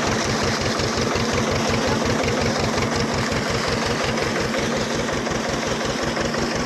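Tractor engine running steadily while driving a PTO water pump, with a fast, even low beat.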